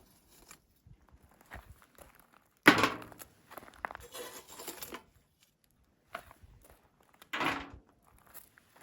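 Irregular handling knocks and rustling: one sharp knock about three seconds in, followed by a couple of seconds of rustling, then a duller thud near the end, with faint small clicks in between.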